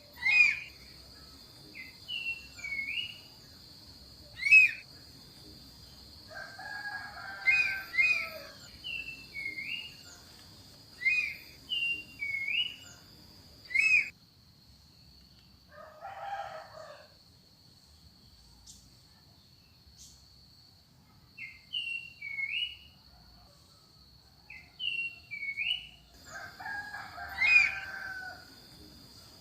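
Wild forest birds calling: short, hooked whistled notes repeated in pairs, broken by a few longer, lower, harsher calls, one of them crow-like. A steady high insect buzz runs underneath, dropping out for a stretch in the middle and returning near the end.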